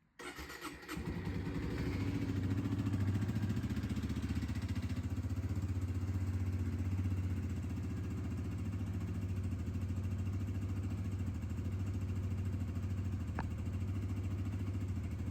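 Suzuki GSX-R125's single-cylinder 125 cc four-stroke engine starting up, catching within about a second and then idling steadily.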